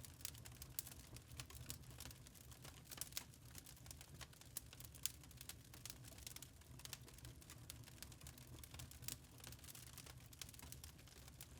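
Wood fire in a fireplace crackling softly, with irregular sharp pops and snaps over a faint low hum.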